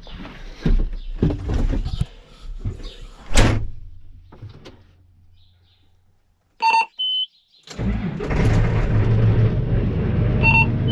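Scattered knocks and clatter that die away into a brief quiet, then a short electronic beep and tone, and a diesel tractor engine running steadily from about eight seconds in, with another short beep near the end.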